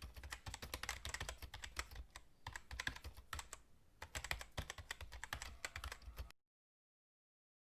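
Rapid, irregular faint clicking and crackling in clusters with short pauses, like a stream of tiny taps, cutting off abruptly about six seconds in.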